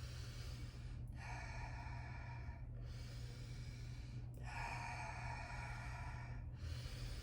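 Slow, deep audible breaths during a breathing exercise: two long breaths of about two seconds each, one near the start and one past the middle.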